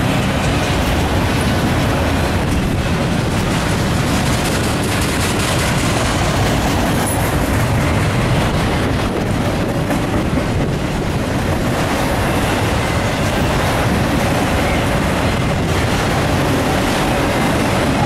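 Autorack freight cars rolling past at close range: a loud, steady noise of steel wheels running on the rails.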